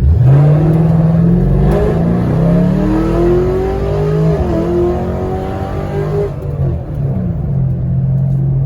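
Car engine at full throttle, accelerating hard with its note climbing. There is a brief dip about four seconds in, then it eases off around six seconds in and settles to a steady lower drone.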